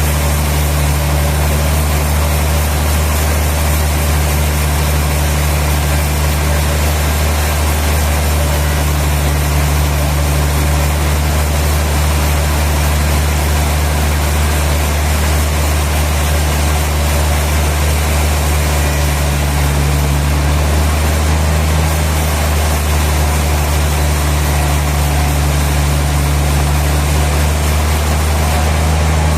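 Sawmill machinery running with a steady low hum, unchanging throughout.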